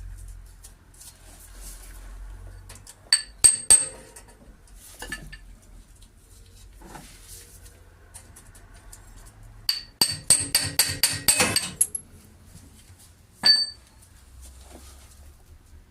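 Metal hand tools clinking and ringing against metal. There are a few sharp clinks about three seconds in, a quick run of clinks around ten seconds in, and one more near the end.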